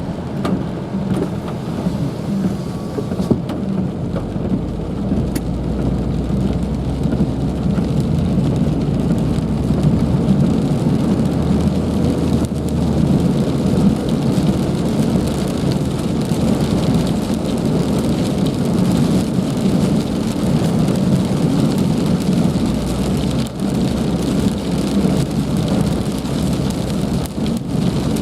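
Heavy rain falling steadily, a loud, dense hiss, with a deep rumble that swells twice.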